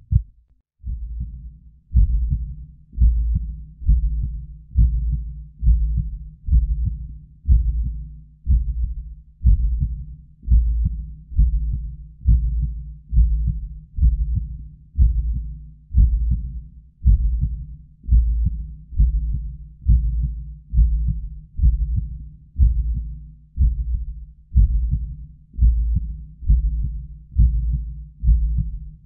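Heartbeat, each beat a low double thump (lub-dub), repeating steadily at about 70 beats a minute. It breaks off briefly right at the start and picks up again about a second in.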